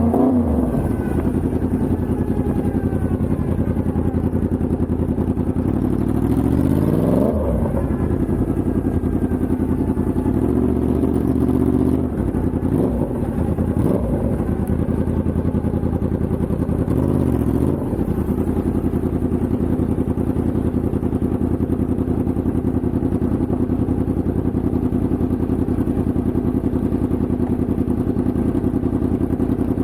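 Yamaha MT-10's crossplane inline-four engine running under way. Its note rises and falls several times in the first half as the revs change, then holds a steady pitch at cruising speed.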